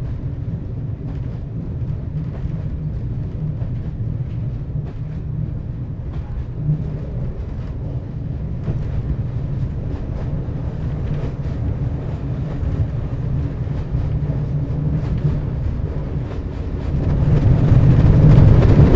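Passenger train running: a steady low rumble with faint scattered ticks, swelling louder over the last couple of seconds.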